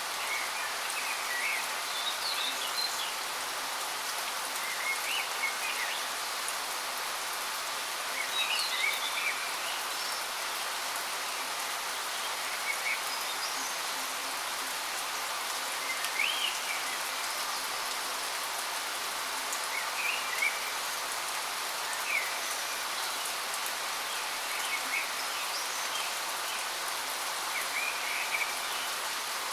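Steady rush of falling water from a waterfall, with small birds chirping in short calls every few seconds over it.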